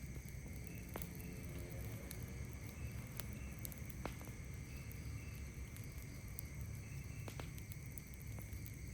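Campfire crackling, with a few sharp isolated pops (about four) over a low steady rumble. Behind it runs a steady high chorus of night insects, with short chirps repeating about twice a second.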